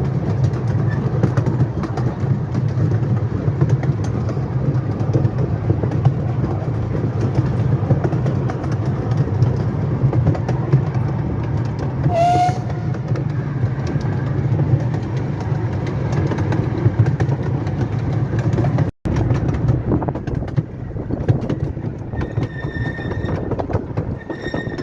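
Miniature railway train running: a steady low rumble of wheels on track with a busy patter of clicks over the rail joints. A short high chirp comes about halfway, and a high steady squeal sounds twice near the end.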